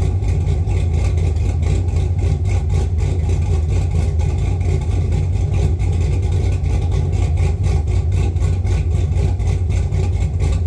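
Cammed 6.0-litre LS V8 idling steadily with a choppy, pulsing lope; the revs stay level.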